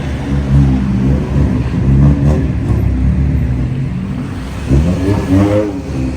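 Car engine revving and accelerating over a steady low rumble. The revs rise and fall several times, with the steepest climb about five seconds in.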